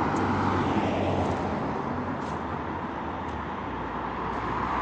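Road traffic noise from passing cars, a steady rush that eases in the middle and builds again near the end as another vehicle approaches.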